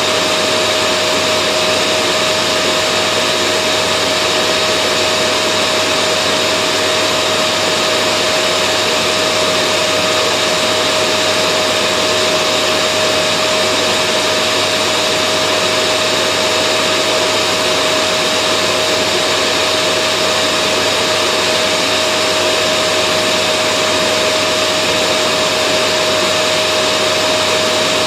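Vacuum cleaner running steadily: a constant motor hum with a steady whine and airflow hiss, unchanging throughout.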